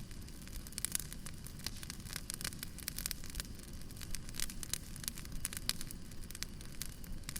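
Wood fire crackling: irregular quick snaps and pops of burning logs over a low steady rumble of flame.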